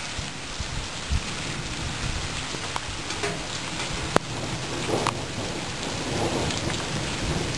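Steady rain hissing down through a thunderstorm, with a low rumble of thunder underneath. A few sharp drip ticks land on a surface, the clearest about four seconds in.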